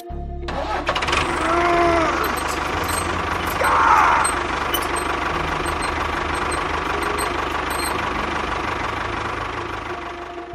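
A small engine running steadily, cutting in abruptly just after the start, with a brief swell in level about four seconds in.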